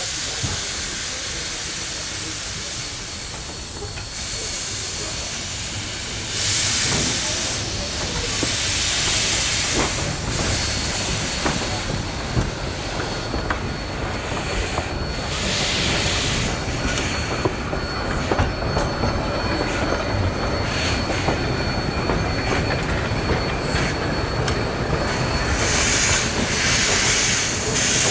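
Narrow-gauge steam locomotive running with its train: a steady low rumble broken by several bursts of steam hissing a second or two long. A thin, steady high squeal of wheels on rail runs through the middle stretch.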